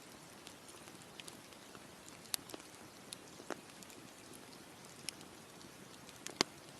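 Campfire crackling: irregular sharp pops of burning wood over a steady low hiss, the loudest pop near the end.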